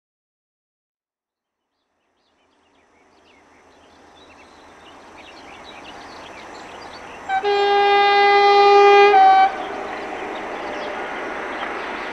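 An approaching electric train, the SNCF CC 6500 locomotive CC 6575 with its TER, whose running noise grows from silence about three seconds in. About seven seconds in the locomotive sounds its horn, a loud two-note blast of about two seconds, after which the steady rumble of the train carries on.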